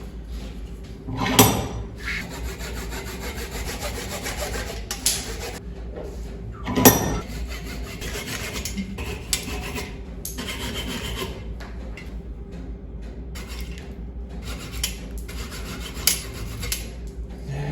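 A hand tool scraping and rubbing on a small piece of burl wood in irregular strokes, with two sharp knocks, one about a second and a half in and one about seven seconds in.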